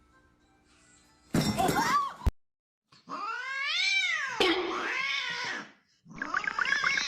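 Domestic cats meowing and yowling. A short loud cry comes about a second and a half in, then one long meow that rises and falls in pitch, then a wavering yowl near the end. The sounds are separated by abrupt cuts.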